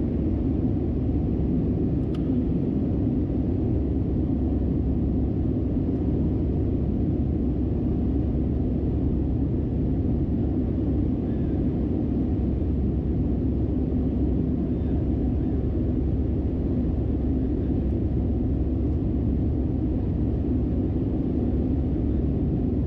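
Steady low rumble inside the cabin of an Airbus A319-112: the noise of its CFM56 engines and the air around the fuselage, even throughout with no change.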